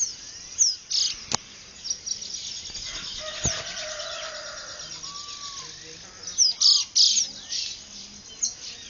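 Dawn chorus of many birds: overlapping short, high chirps and quick downward-sweeping calls, with a louder cluster of chirps about six to seven seconds in. Two sharp clicks stand out, about a second in and again near the middle.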